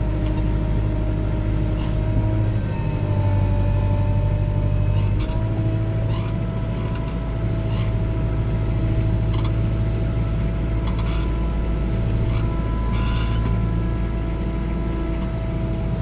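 Kubota L3940 compact tractor's diesel engine running steadily, its speed dipping slightly and rising again a few times.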